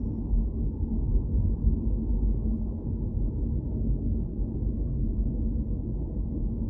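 Steady low rumble of a car driving, road and engine noise with a faint steady hum.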